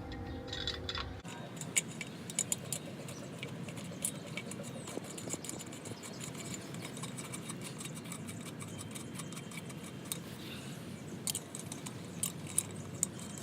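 Lug nuts being spun on by hand onto wheel studs, giving scattered light metallic clicks and clinks.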